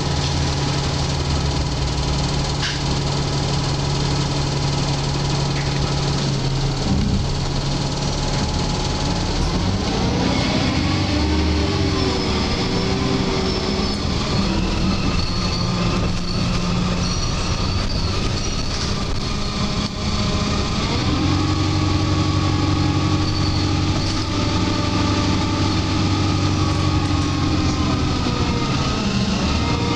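Alexander Dennis Enviro 300 single-deck bus heard from inside the saloon: the engine idles steadily, then rises in pitch as the bus pulls away about ten seconds in, and again about twenty seconds in. Thin high-pitched screeching comes and goes over the engine.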